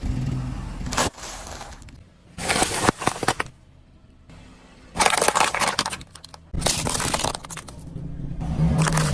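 Objects crunching and cracking as a car crushes them, in several separate bursts with short quiet gaps between. A low engine hum sits under the start and the end.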